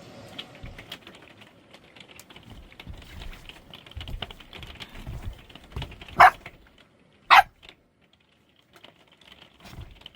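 Dog barking twice, two short, sharp barks a little over a second apart, loud against soft clicking and tapping before them.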